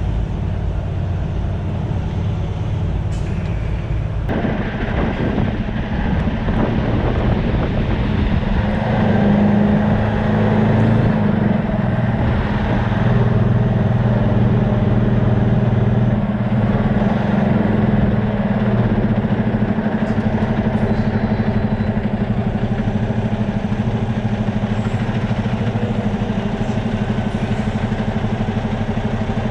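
Semi truck's diesel engine running while the rig turns around, its note shifting about four seconds in and working harder for several seconds before settling to a steady run.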